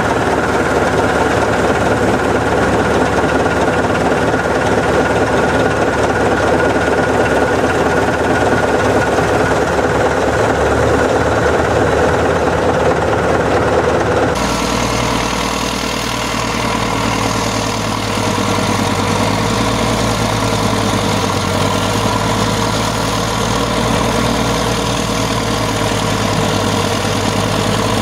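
Heavy Caterpillar diesel engine running steadily. About halfway through, the sound changes abruptly to a different, lower engine note.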